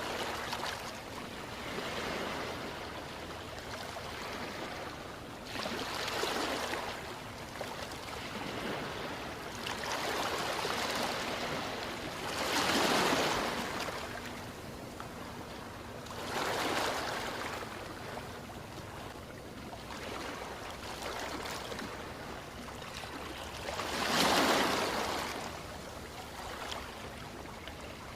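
Ocean waves breaking and washing on a shore: a steady rush of surf that swells every few seconds, with the biggest waves near the middle and near the end.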